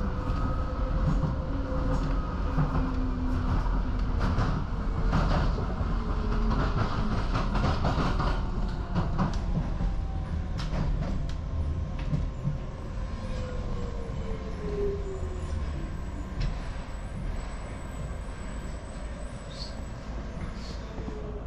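Docklands Light Railway train running, heard from inside the carriage: a steady low rumble with wheel clicks over the rail joints. Later the motor whine falls in pitch and the rumble eases as the train slows for a station.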